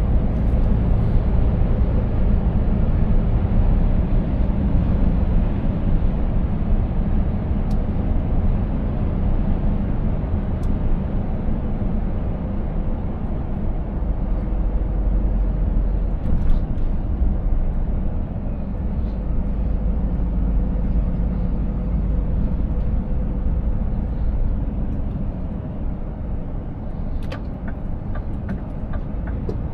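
Scania S 500 truck driving: a steady low engine and road rumble with a faint steady hum above it. Near the end comes a run of quick, evenly spaced ticks.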